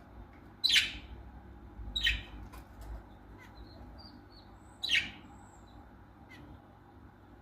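A bird giving three loud, short, shrill calls, with a few faint chirps between them.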